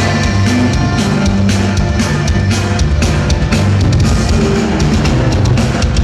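A band playing loud music, with a drum kit beating steadily over bass and guitar.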